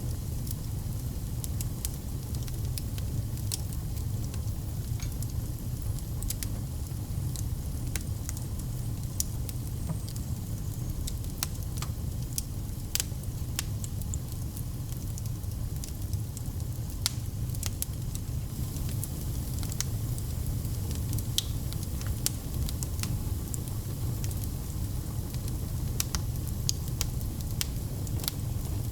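Fireplace fire burning, with a steady low rumble of the flames and scattered sharp crackles and pops at irregular moments.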